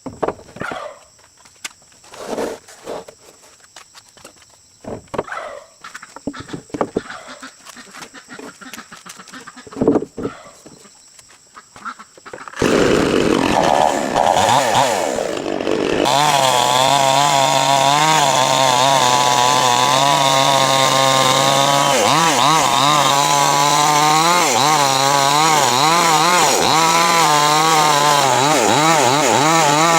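Scattered light knocks and steps. About twelve seconds in, a small engine starts loud and runs steadily, its pitch wavering up and down.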